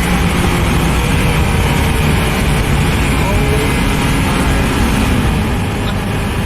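SSC Tuatara's twin-turbo V8 running with road noise, a loud, steady drone with no clear revving or gear changes.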